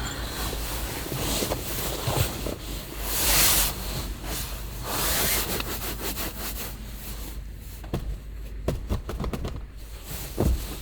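Heavy rain and gusting wind beating on a small van, the noise swelling and easing in surges, with a run of sharp taps and knocks in the last few seconds.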